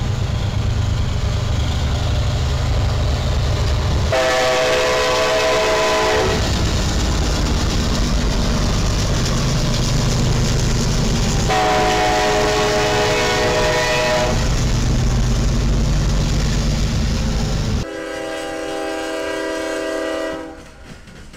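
Diesel freight locomotives running past close by, with their horn sounding two blasts of about two seconds each, several notes at once, some seven seconds apart. Near the end the sound cuts to a quieter, more distant CSX freight train sounding its horn once before it fades.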